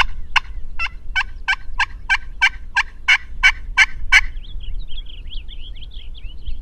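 Wild turkey calling: a run of sharp, evenly spaced notes, about three a second, that stops about four seconds in. Faint, wavering, high bird chirps follow, with a low steady rumble underneath.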